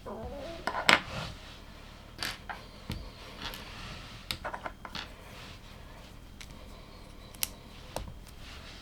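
LEGO plastic bricks being handled and pressed together: a series of sharp, irregular clicks, the loudest about a second in, with a cluster of quicker clicks just after the middle.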